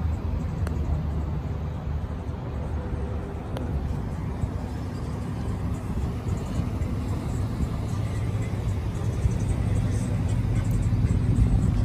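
1996 Chevrolet Impala SS's LT1 V8 idling with a steady low rumble, growing louder in the last few seconds.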